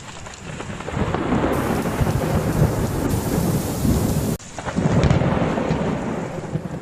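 Thunder rumbling over heavy rain in a severe storm. It builds about a second in, breaks off sharply a little over four seconds in and picks up again straight after.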